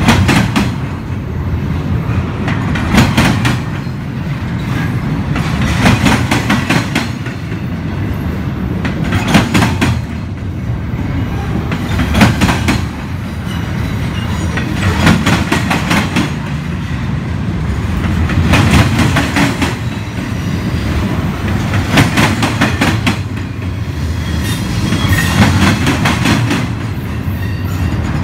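Double-stack intermodal train's well cars rolling past: a steady low rumble, with a cluster of sharp wheel clacks about every three seconds as each set of trucks goes by.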